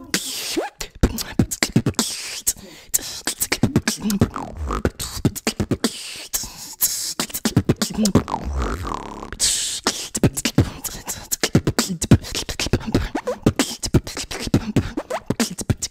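Beatboxing: a fast run of percussive mouth clicks and pops, with short hummed notes that slide up and down in pitch.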